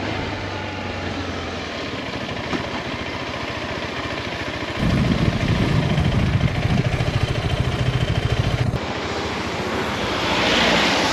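Motorcycle on the move: a steady rush of engine and wind noise, with a louder, fluttering low rumble for about four seconds in the middle and a hissing swell near the end.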